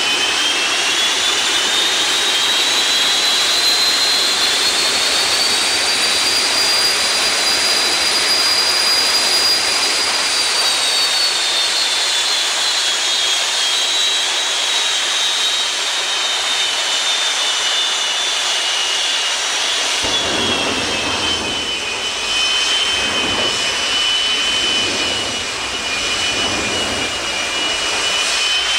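Jet engine of a Kenworth jet truck running loud, with a rushing exhaust and a high turbine whine that climbs in pitch over the first several seconds, holds, then slowly falls and settles lower.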